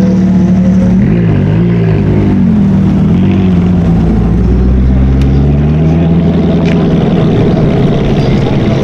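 Sports car engine running loudly, its revs blipped up and down a few times in quick succession, then dropping back to a steadier lower drone.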